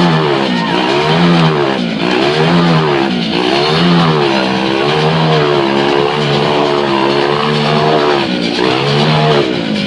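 Globe of Death motorcycle engine revving up and down in pitch with each lap, about once every second and a quarter, as it loops inside the steel globe. The pitch holds steadier for a few seconds midway, then goes back to the same rise and fall.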